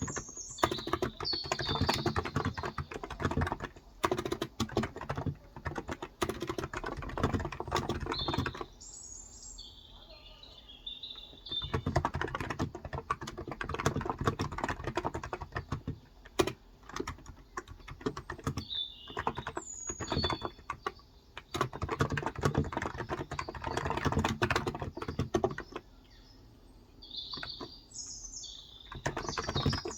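Fast typing on a Cox Endeavor electrostatic capacitive tenkeyless keyboard with light 35 g switches, in runs of key clicks with two short pauses, one about a third of the way in and one near the end. Birds chirp briefly now and then.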